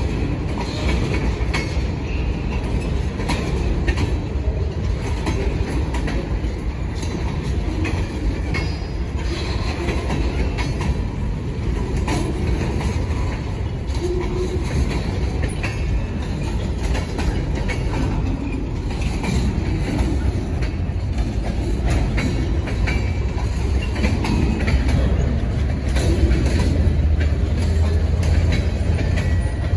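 Freight cars rolling slowly past: a steady low rumble of steel wheels on rail, with many small clicks and a few brief high wheel squeals.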